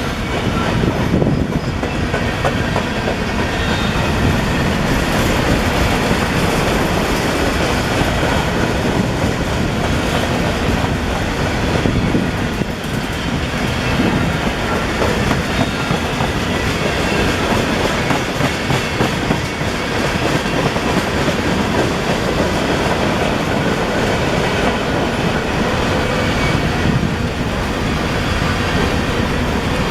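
Freight cars of a CSX manifest train rolling past, a loud, steady rumble of steel wheels on rail with a rapid run of clicks from the wheels.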